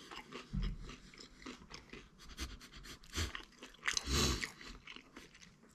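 Quiet close-up chewing of a pizza slice: soft crunches and mouth clicks, with two louder low thuds, about half a second in and about four seconds in.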